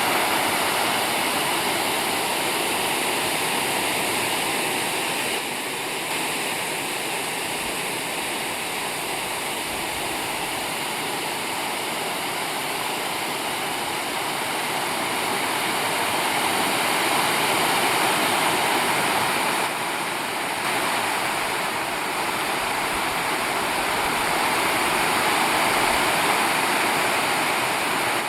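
River water rushing steadily, a continuous even noise, with small shifts in level about five seconds in and again around twenty seconds.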